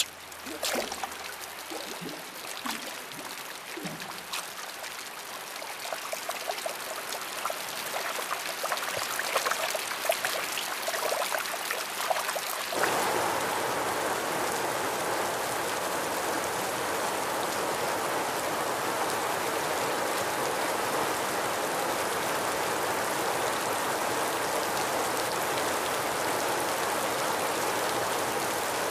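Rain, starting as scattered drops and pattering, then a little under halfway through switching suddenly to a steady heavy downpour.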